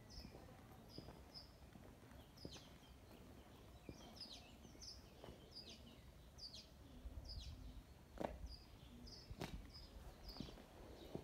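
Small birds chirping over and over in short high calls, with soft footsteps on a paved lane underneath and a couple of sharper knocks near the end.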